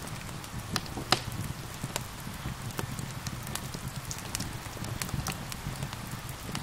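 Wood fire crackling with frequent sharp pops, the loudest just after a second in, over a steady hiss of rain and a low rumble.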